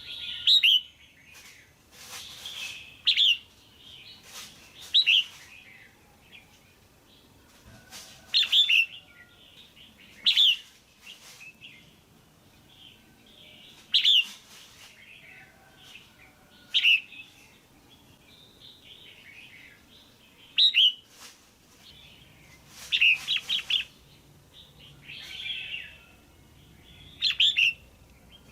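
Female red-whiskered bulbul calling: short, loud, clear chirping phrases repeated about every two to three seconds, the kind of call used to rouse a male bulbul.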